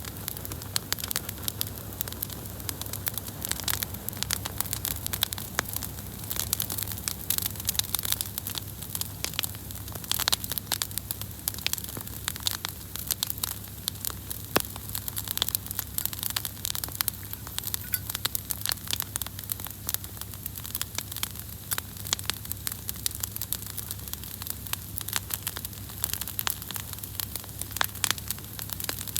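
Wood fire crackling steadily, with many small irregular pops and snaps from the burning wood.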